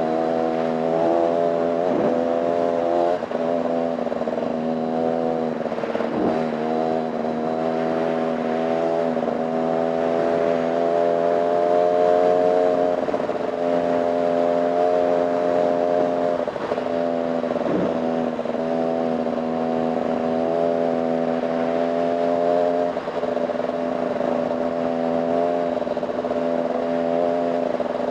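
Dirt bike engine running with the throttle working up and down in small steps, its pitch rising and dipping gently. A few sharp knocks are heard as the bike rides over rough ground.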